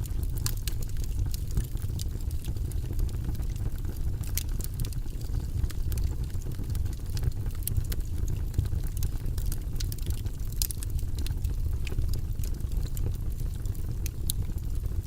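Fire burning in a fireplace: a steady low rumble of flames with frequent sharp crackles and pops scattered irregularly throughout.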